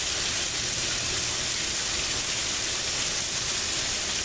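Rain shower falling steadily, an even hiss with no breaks.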